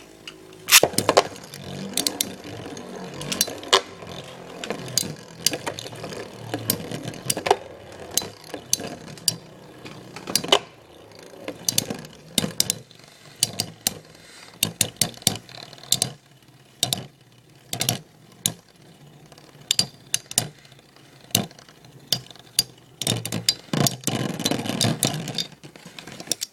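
Two Metal Fusion Beyblade spinning tops, Lightning L-Drago in attack mode against Burn Fireblaze, whirring in a stadium and clacking against each other many times, with a loud clash about a second in. The hits come less often past the middle, then a louder burst of scraping and clashing comes near the end.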